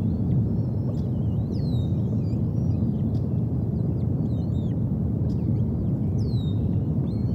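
A steady low rushing background of rain at a tree nest, with songbirds calling over it: scattered thin chirps and two clear down-slurred whistles, about one and a half seconds in and again near the end.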